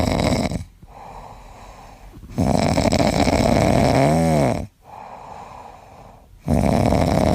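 A pet snoring loudly: long snores of about two seconds each, coming about four seconds apart, with quieter breathing between them.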